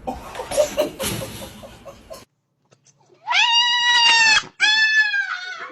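A cat yowling twice in two long, drawn-out meows, each over a second long, the second falling in pitch at its end. Before the yowls come about two seconds of rustling and knocking.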